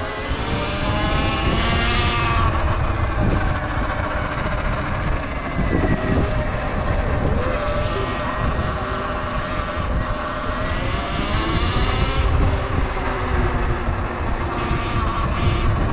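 Sur Ron electric dirt bike's motor whining under way. Its pitch rises about two seconds in, holds steady, drops around twelve seconds and climbs again near the end, over a steady rumble of wind on the microphone.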